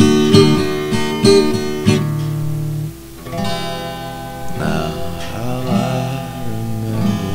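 Music: an instrumental break led by strummed acoustic guitar. There are a few strums in the first two seconds, a brief dip near three seconds, then held, wavering notes over the guitar.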